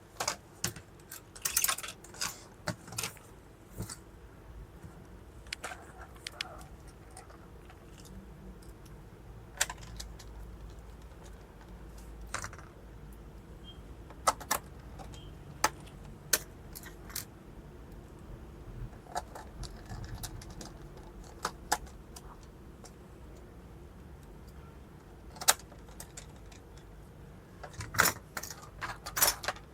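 Scattered small clicks and metallic taps from handling laptop parts, screws and a screwdriver as a laptop case is put back together. The clicks are sharp and irregular, with quiet handling in between and a denser cluster near the end.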